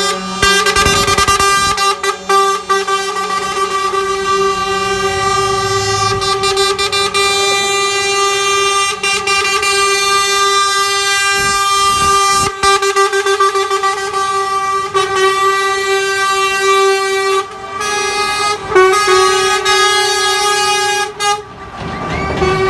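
Truck air horns blowing almost without pause: a loud, steady multi-tone chord, broken by a few brief gaps.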